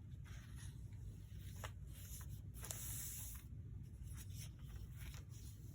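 Paper rustling and crinkling as the pages of a handmade junk journal are handled, with a few short crisp ticks and a louder rustle near the middle.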